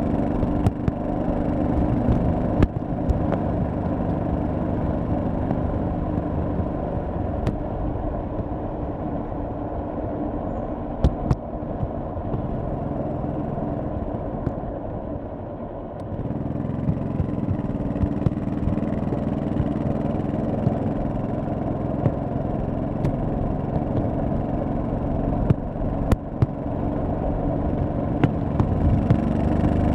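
1100cc V-twin motorcycle engine running while riding, a steady pulsing exhaust note. It softens for a few seconds around the middle, then picks back up at about the halfway point. A few short sharp clicks come through over the engine.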